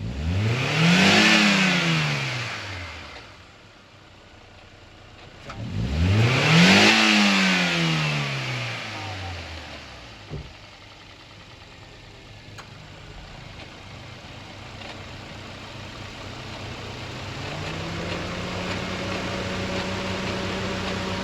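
Toyota Corolla XLi engine revved twice, each time rising quickly and falling back to idle, then idling. Near the end a steady hum comes in and settles at one pitch.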